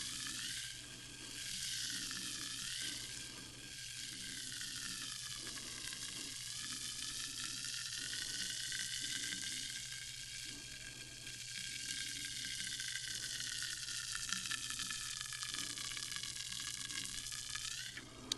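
Sparkling water fizzing, with dense crackling from carbonation bubbles bursting at the surface. A ringing tone runs through it and slowly drifts down in pitch and back up.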